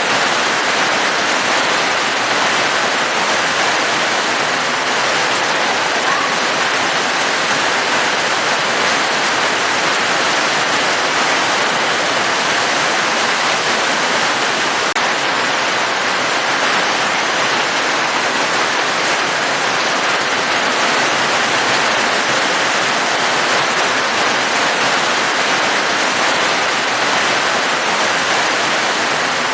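Steady heavy rain, an even hiss that does not change.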